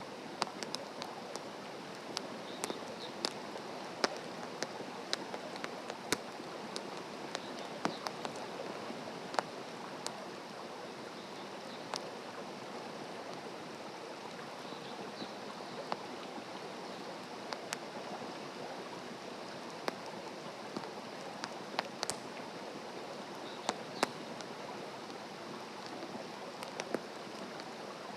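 Wood campfire burning, crackling with scattered sharp pops over a steady hiss.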